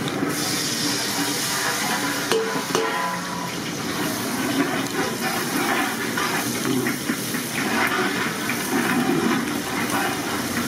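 Water pouring and splashing, a continuous uneven rush with a few small clicks and knocks.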